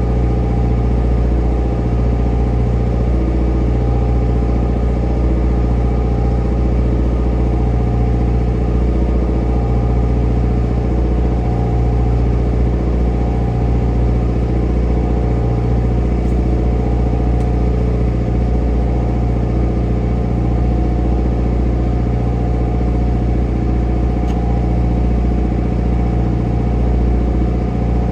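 Fishing trawler's engine running steadily at an even speed, a constant low drone that does not change.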